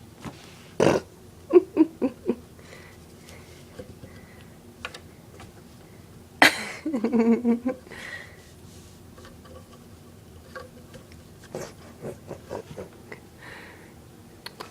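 Kitten pawing and batting at the person filming, making a few sharp knocks and rubs against the camera. About six and a half seconds in comes a louder hit, followed by a short, low voice-like sound.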